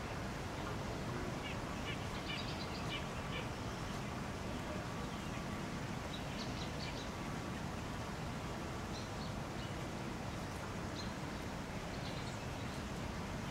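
Short, high chirps from small birds, in scattered clusters, over steady low background noise.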